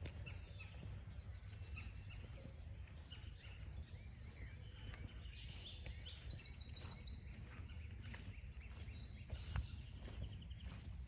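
Several wild birds calling and singing in woodland, with a quick run of falling notes and a rapid trill of repeated notes about midway. Footsteps on the trail make soft, regular ticks.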